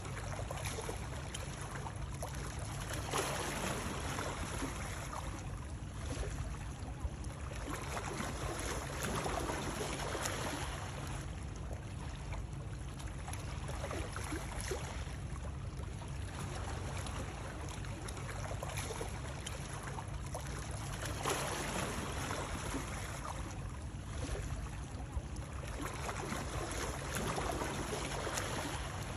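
Water sound for soothing babies: a continuous wash of lapping water that swells every five or six seconds over a steady low rumble.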